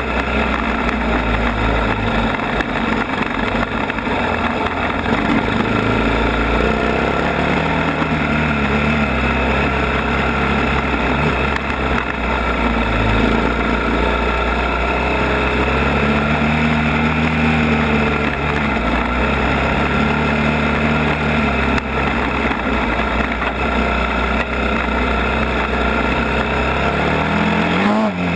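ATV engine running on a trail ride, its pitch rising and falling over and over as the throttle opens and closes, over a steady rush of riding noise.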